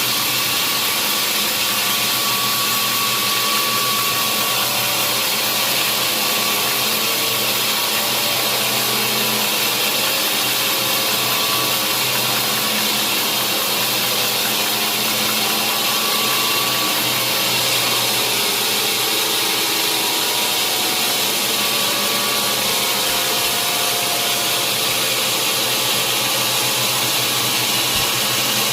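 Sawmill machinery running steadily: a loud, even hiss with a low hum underneath that does not change.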